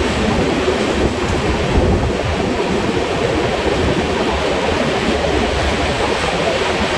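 Telangana Express passenger train running at speed, a steady rumble of wheels on rail mixed with rushing wind, played at double speed.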